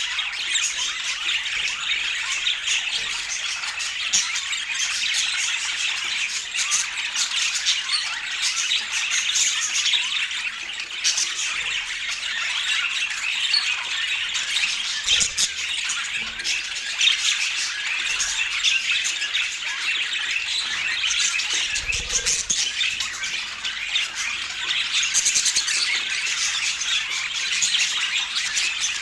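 Budgerigars chattering: a dense, unbroken stream of short chirps and warbles.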